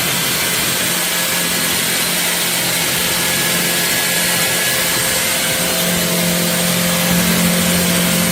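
Shark Detect Clean & Empty cordless stick vacuum running steadily, a loud hiss with a low hum that grows stronger about six seconds in.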